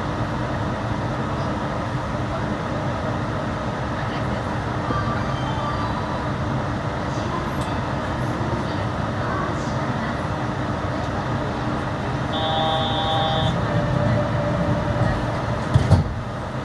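Yurikamome rubber-tyred automated train running, a steady rolling noise. About twelve seconds in, a short electronic chime of several steady tones sounds, and a couple of sharp knocks come near the end.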